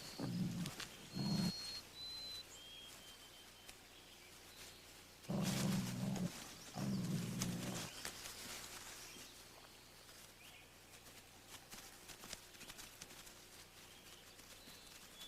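Wolf pups growling in short, rough bursts: two brief ones in the first second or so, then two longer ones between about five and eight seconds in. A few thin, high whistles sound in the first three seconds.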